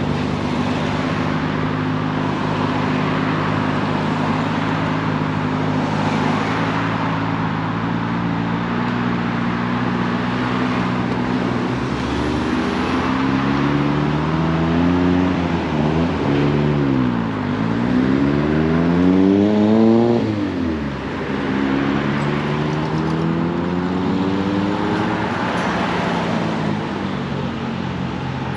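Car engines running at idle, then a car accelerating away: its engine note climbs, drops briefly at a gear change, climbs again and falls off sharply near the end of its pull.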